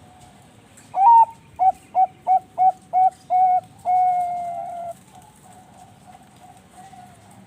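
Zebra dove (perkutut, a Bangkok-bred song dove) cooing its song: a loud opening note about a second in, six short quick notes, then one long drawn-out note. Fainter cooing at the same pitch goes on in the background before and after.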